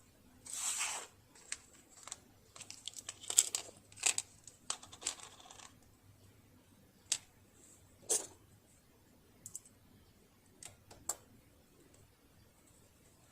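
Scattered light clicks, taps and rustling of hands handling sewing-machine parts and tools, busiest in the first half and thinning out to a few isolated clicks.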